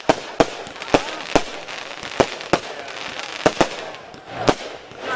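Consumer fireworks going off: a string of about ten sharp bangs in five seconds, spaced unevenly, some close together in pairs.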